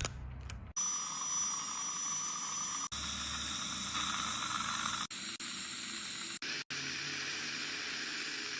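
Steady hiss of dental equipment running, spliced into several short stretches that start and stop abruptly. A thin, high, steady whine runs for about two seconds near the start.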